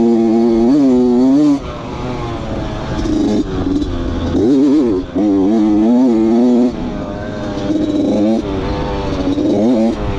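Dirt bike engine revving, its pitch rising and falling as the throttle opens and closes. It is loud for the first second and a half, again for a longer stretch in the middle, and in short bursts near the end, with quieter running in between.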